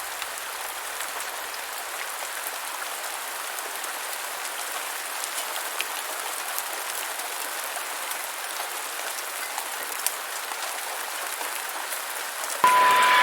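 Steady rain: an even hiss with scattered faint drop ticks. Near the end a short beep sounds, and louder crowd noise cuts in suddenly.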